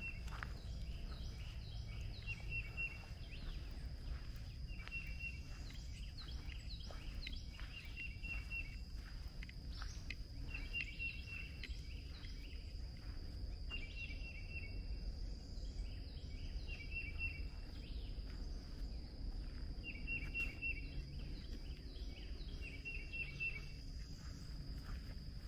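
A songbird repeating the same short phrase of quick notes about every three seconds, over a steady high-pitched whine and a low rumble of outdoor background noise.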